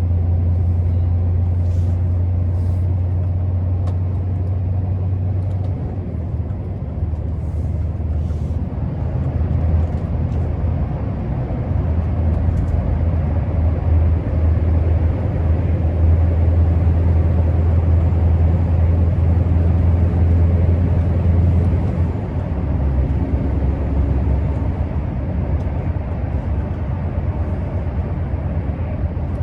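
Scania R650's 16-litre V8 diesel running steadily as the truck drives along, a strong low drone over road noise. About three quarters of the way through, the engine note drops lower.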